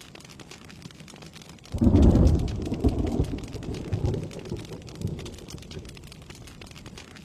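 Steady rain with a clap of thunder about two seconds in: a sudden low rumble, loudest at the start, that rolls on in a few swells and fades over the next few seconds.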